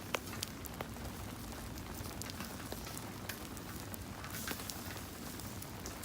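Wood campfire crackling with scattered sharp pops, over the steady hiss of falling rain.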